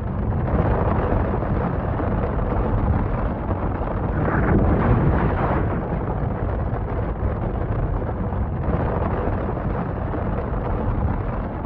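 Severe storm battering a car while it is being driven, heard from inside the car: loud, continuous noise of wind and storm on the bodywork, a little louder about four to six seconds in.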